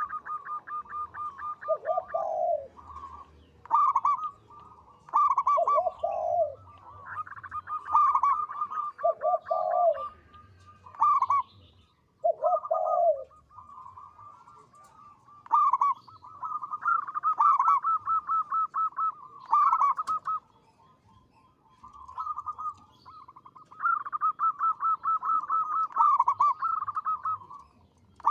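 Zebra dove (perkutut) cooing phrase after phrase: quick, stuttering runs of short coos, several joined by a lower, drawn-out note, with short pauses between phrases.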